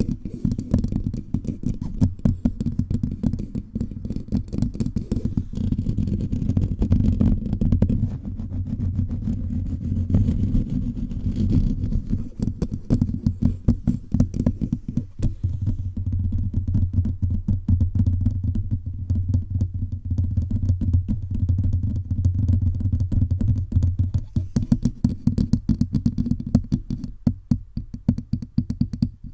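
Fingers tapping rapidly all over a bare microphone, many quick dull, bassy taps in a row.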